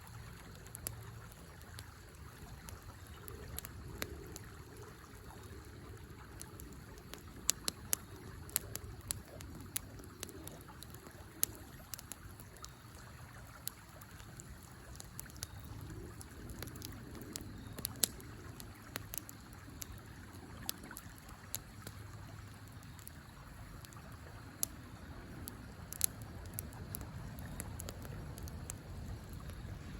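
Small wood campfire crackling with sharp, irregular pops, over the steady rush of a river.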